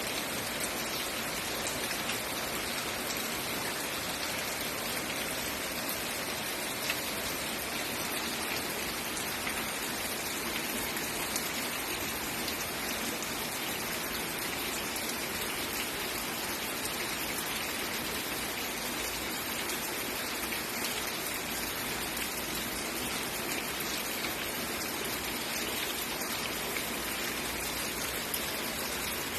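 Steady rain falling and pattering on surfaces, an even hiss with a few louder single drop ticks.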